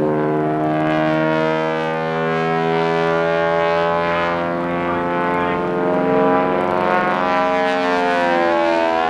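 Piston-engined propeller airplane flying by low, a steady, loud engine drone whose tone slowly shifts as it passes.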